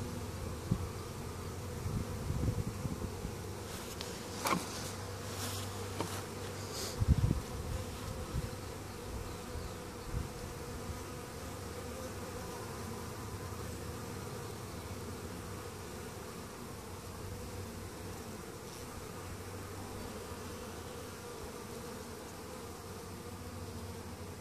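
Honeybee colony buzzing steadily in an open hive. A few sharp clicks and low knocks come in the first several seconds, the loudest about seven seconds in.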